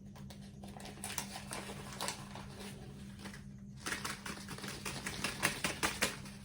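Small plastic diamond-painting tools and their plastic packaging being handled: scattered light clicks and rustles, then a quick run of clicks about four seconds in, over a steady low hum.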